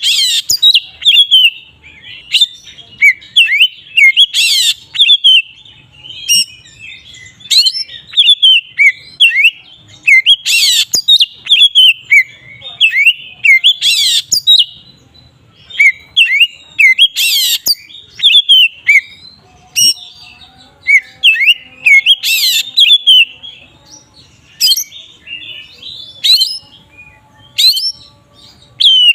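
Oriental magpie-robin (kacer) singing a non-stop 'ngeplong' song of fast, varied whistled notes and slurs. Short harsh rasping notes break in every few seconds.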